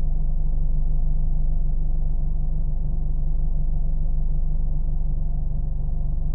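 Steady, deep car engine drone, an even low hum that neither rises nor falls, muffled with nothing high-pitched in it.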